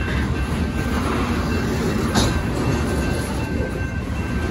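Freight train cars rolling past at a grade crossing: a steady rumble of steel wheels on the rails, with one brief sharp clank about two seconds in.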